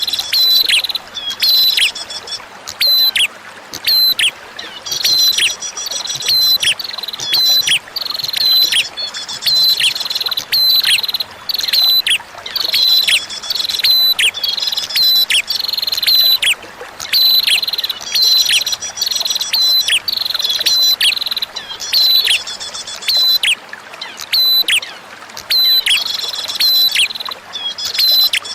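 Prinia (prenjak) song: loud, sharp, high chip notes that sweep downward, mixed with rapid buzzy trills, repeated in bursts about once a second. A faint, steady wash of running water lies underneath.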